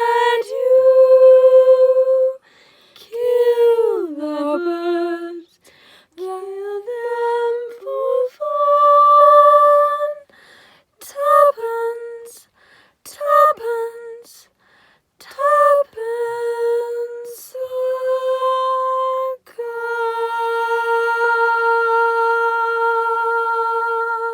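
A woman's voice, with no accompaniment, sustains a slow melody in phrases of long held notes with short breaks between them. The last note is held for about four and a half seconds.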